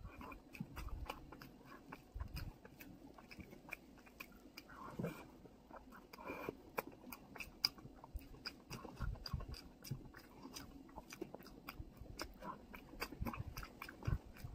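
Close-up chewing and mouth smacking of someone eating rice and chicken curry by hand, a run of many short wet clicks.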